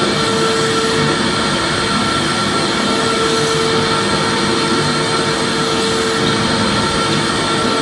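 Vacuum cleaner running steadily: an even rushing noise with a constant whine in it.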